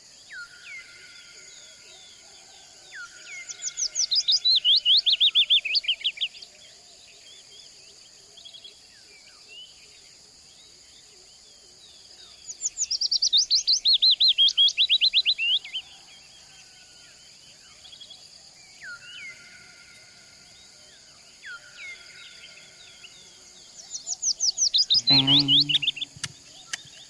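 A songbird singing three loud song phrases about ten seconds apart. Each phrase is a fast run of notes falling in pitch over about three seconds. Softer whistled notes come in between, over a steady high background drone.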